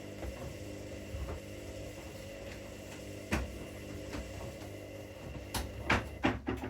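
Washing machines running with a steady motor hum. A single knock comes about halfway through, and several louder knocks and clatters follow near the end.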